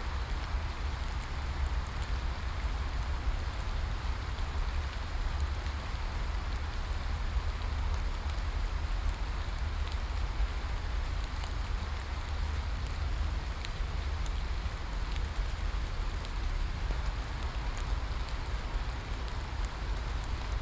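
Steady rain falling, an even hiss with faint scattered drop ticks and a steady low rumble underneath.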